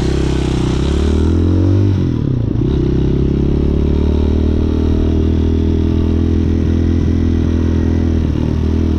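Hawk 250 dual-sport motorcycle's single-cylinder engine pulling under way. Its pitch rises for the first couple of seconds, dips about two seconds in, then holds steady.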